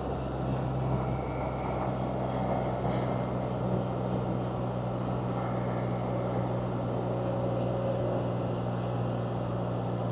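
Can-Am Spyder three-wheeled motorcycle cruising at a steady speed: an even engine note with wind and road rush over it.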